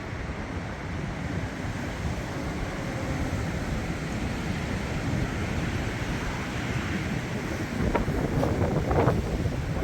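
Strong, gusty windstorm wind blowing steadily, with wind noise on the microphone. It swells into a louder gust about eight seconds in.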